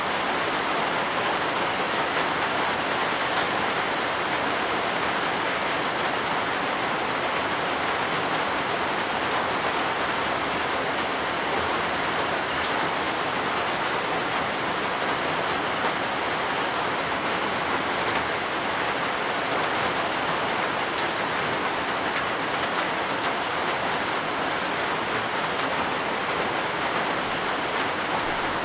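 Steady rain on the shop roof, an even hiss with no single drops or knocks standing out.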